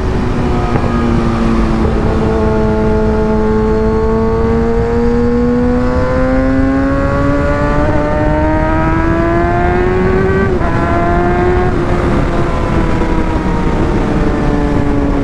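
Sport motorcycle engine heard from the rider's helmet mic, pulling hard with its pitch climbing steadily in one gear, then dropping sharply with an upshift about ten and a half seconds in and again about a second later. Wind rush runs under the engine throughout.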